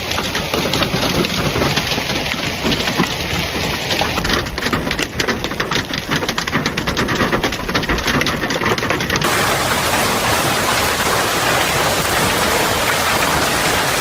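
Hailstones and heavy rain pelting down, with a dense clatter of many sharp individual hits. About nine seconds in, the sound cuts abruptly to a steadier, denser rush of downpour.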